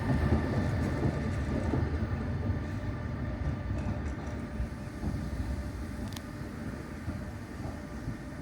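A train running past on the tracks: a low rail rumble with a steady whine above it, fading steadily as it moves away. A single sharp click comes about six seconds in.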